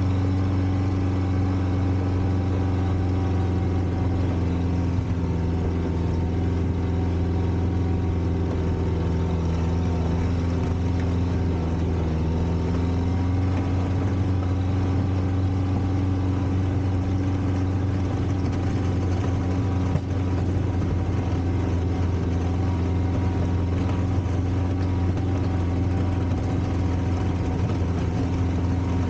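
Four-cylinder Volvo gasoline engine of a 1960s Kalmar baggage tractor running steadily at a low, even speed, its pitch shifting slightly about halfway through.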